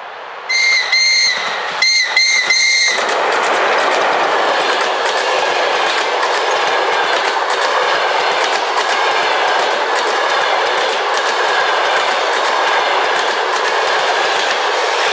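Series of about five short, high-pitched toots from a ChS4 electric locomotive's whistle, two then three, sounded as a greeting while passing. After it a passenger train's coaches roll by close, with a steady rumble and the rhythmic clickety-clack of wheels over rail joints.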